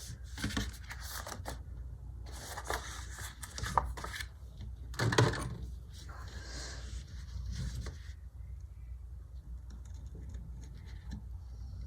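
Paper and sticker sheets being handled: irregular rustling, scraping and peeling through most of the first eight seconds, then fainter handling, over a steady low hum.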